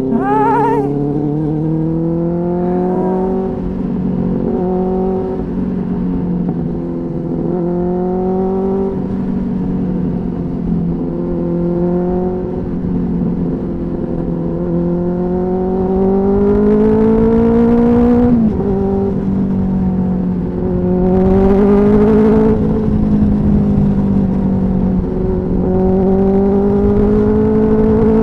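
Motorcycle engine running under way, heard from the rider's seat. Its pitch climbs as the bike gathers speed and drops suddenly about eighteen seconds in, as at a gear change. Low wind rumble on the microphone underlies it.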